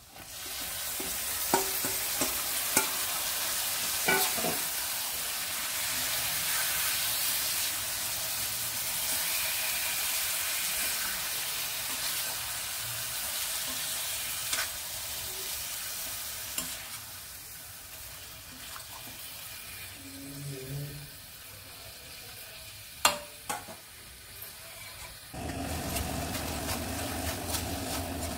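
Yogurt-marinated chicken pieces sizzling as they hit hot oil and fried onions in a stainless steel kadai, with a metal spoon clinking and scraping against the pan as they are stirred. The sizzle is loudest for the first several seconds and eases off later, and near the end a lower, steady rushing sound sets in.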